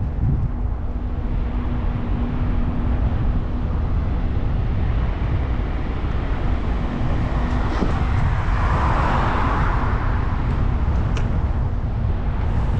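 Wind rumbling on the microphone of a moving e-bike, with road traffic around it; a vehicle swells past about nine seconds in.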